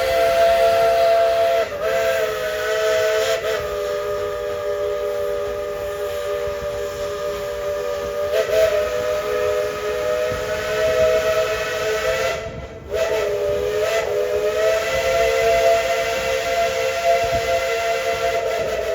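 Steam locomotive's chime whistle blowing a long, loud chord of several notes at once, held nearly continuously, wavering briefly a few times and breaking off for a moment about halfway through.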